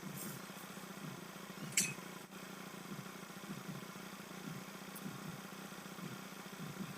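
Honda Click 125i scooter engine idling faintly and steadily, with a sharp click about two seconds in.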